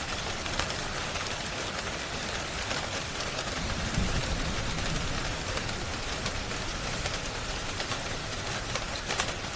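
Steady rain falling, with many small sharp crackles and pops from a wood fire scattered through it. A brief low rumble comes about four seconds in.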